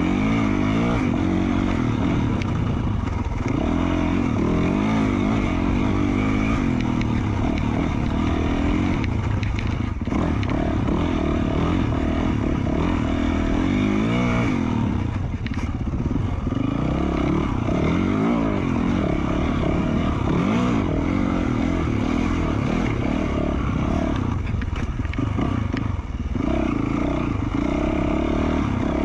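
2020 Yamaha YZ450F's single-cylinder four-stroke engine, fitted with an FMF Q4 slip-on muffler, being ridden hard, revving up and falling back over and over as the rider works the throttle and gears along a trail.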